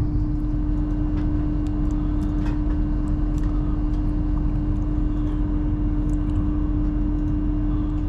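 Interior running noise of a Hull Trains Class 802 bi-mode train under diesel power: a steady low rumble with a constant hum and a few faint clicks.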